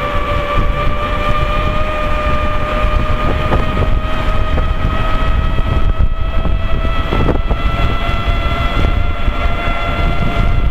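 Knobby tire of an Inmotion V13 electric unicycle humming on the road, a steady whine that climbs slowly in pitch as the wheel speeds up, over low wind rumble on the microphone.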